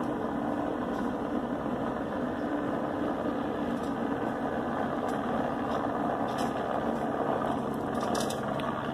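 Police helicopter circling, its engine and rotors making a steady drone with a low hum.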